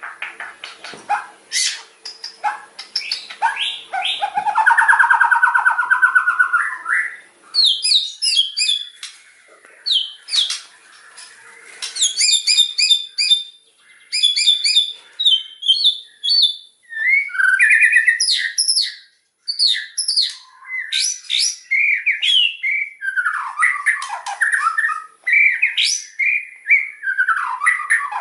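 White-rumped shama (murai batu) singing loudly in a continuous run of varied phrases: fast trills and chattering warbles, then strings of clear whistled notes and sweeping glides that rise and fall.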